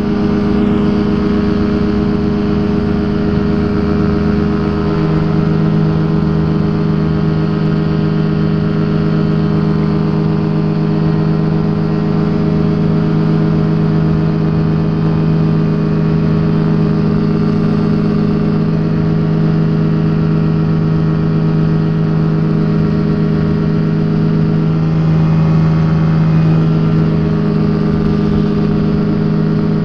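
Rotax engine of a Quad City Challenger ultralight running steadily, with small changes in pitch about five seconds in and again near the end.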